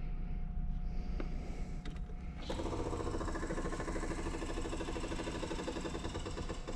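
Jaguar XK-140's straight-six being cranked by its starter on a cold start, with a low rhythmic churning. About two and a half seconds in the sound gets louder and busier with rapid pulsing, then drops away near the end. It is one of several attempts needed before the carburettors, dry after the car sat for three days, are primed.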